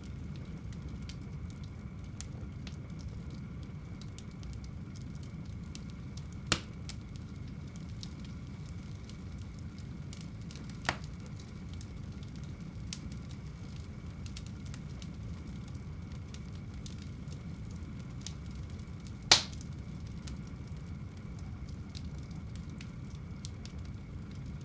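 Fire burning in a home fireplace: a steady low rumble of flames with scattered faint crackles and three sharp pops, the loudest about three-quarters of the way through.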